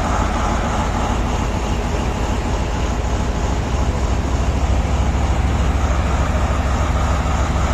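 Heavy diesel mining machinery running steadily, a deep continuous engine rumble with a wide noisy hiss over it.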